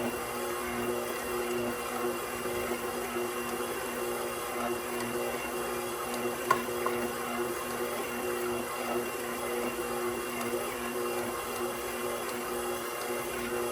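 KitchenAid Professional 6000 HD stand mixer's DC motor running steadily with an even hum while its spiral dough hook kneads bread dough. A single sharp click about six and a half seconds in.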